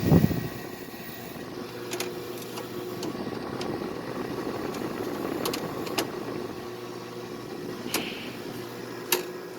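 Hampton Bay 5000 BTU window air conditioner running with its compressor and fan on: a steady hum that doesn't sound good, while the unit fails to blow cold, so the owner suspects it is dead. A thump at the very start and a few short clicks.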